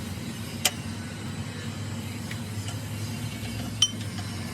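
Steady low hum with two sharp knocks about three seconds apart, the second ringing briefly.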